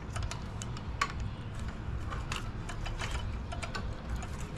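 Small metal carburetor parts clicking and clinking as they are handled and worked loose during disassembly, a dozen or so sharp irregular clicks over a low steady hum.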